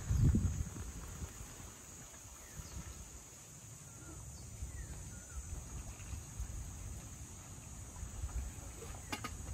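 Outdoor beach ambience: a low, gusting rumble with a heavier bump just at the start, under a steady high-pitched insect drone and a few faint chirps. A short click comes near the end.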